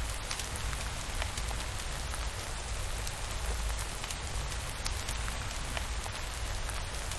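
Steady rain falling, with a low rumble underneath and scattered sharp ticks.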